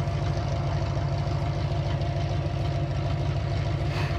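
An engine idling steadily, a low, even pulsing rumble.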